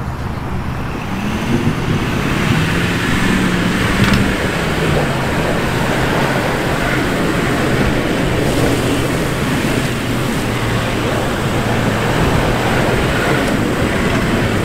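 Off-road vehicle engine revving as it tries to spin donuts in the dirt. The pitch rises and falls over the first few seconds, then holds steady at high revs.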